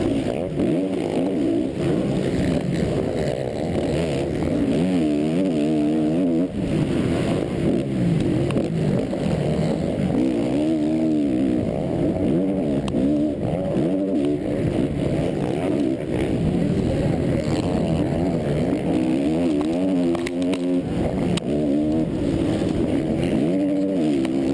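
Motocross race bike's engine revving hard and dropping off again and again, its pitch sweeping up and down with each throttle change.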